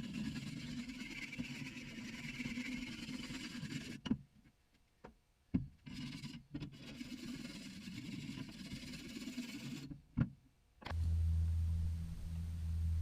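Tractor engine running in several short clips joined by abrupt cuts. Near the end it changes to a louder, steady low hum.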